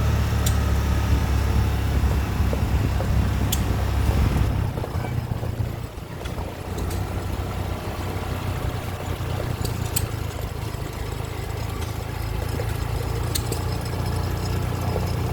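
Engine of a small ride-on vehicle running steadily as it is driven slowly. It eases off briefly about five seconds in and then picks up again, with a few light clicks and rattles over the drone.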